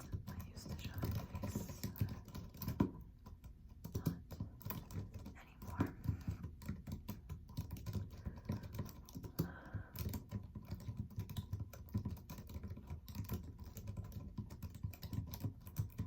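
Typing on a computer keyboard: a quick, uneven run of key clicks, with a short pause about three seconds in.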